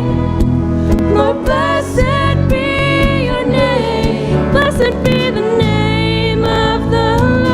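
Live contemporary worship band music with voices singing over a steady accompaniment.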